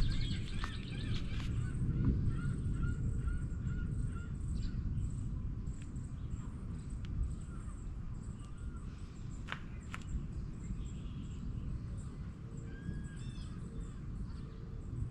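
Birds calling: a quick run of short repeated notes in the first few seconds and a few more chirping calls near the end, over a steady low noise.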